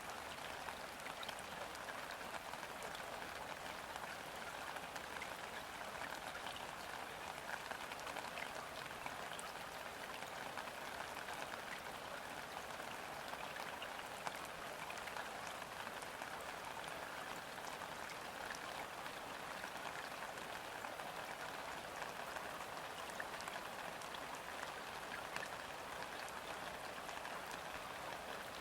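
Gentle rain falling steadily onto a river's surface: an even hiss of many small drop patters, with no let-up.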